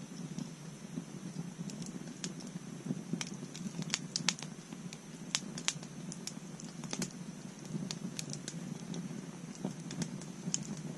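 Wood fire burning, with a steady low rumble of flames and irregular sharp crackles and pops from the burning wood, a cluster of louder pops about four seconds in.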